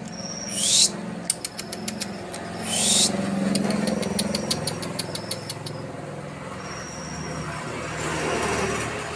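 Domestic canary singing hard, as a bird in strong breeding condition does: two loud, fast downward-sweeping notes, runs of rapid clicking trills and short high steady whistles. A low steady rumble sits underneath.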